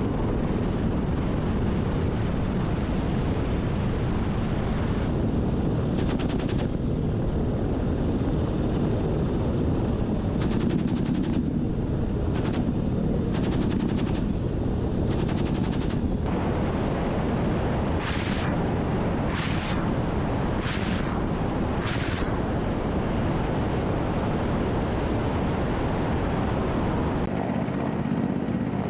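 Steady helicopter noise with rapid gunfire in stretches during the first half. Around the middle come four short separate bursts of fire about a second and a half apart.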